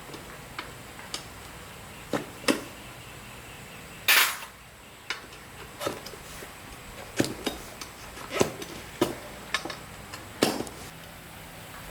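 Metal tools and parts clinking and knocking as they are handled during motorbike repair work, about a dozen separate irregular knocks, the loudest and longest about four seconds in.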